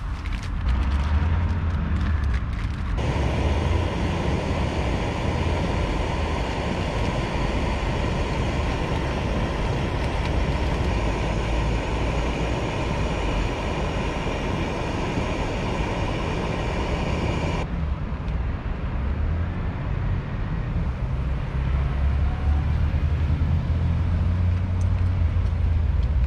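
Steady low rumble of road traffic, with the hiss of breaded chicken sizzling in a pan on a gas camping stove starting suddenly about three seconds in and cutting off sharply some fifteen seconds later.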